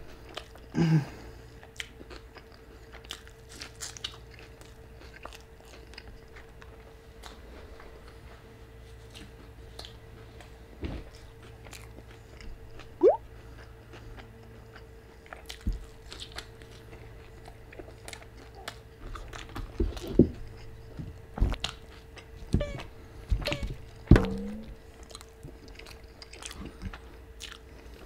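Close-miked chewing and biting of a queso-dipped birria taco: wet mouth clicks and occasional crunches, with a cluster of louder bites in the last third. A faint steady hum lies underneath.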